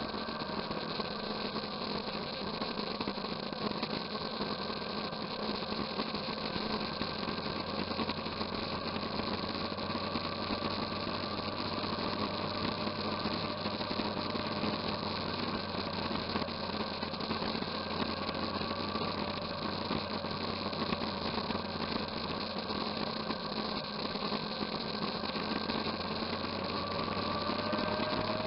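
Motorcycle engine running steadily at an even pitch, rising slightly near the end.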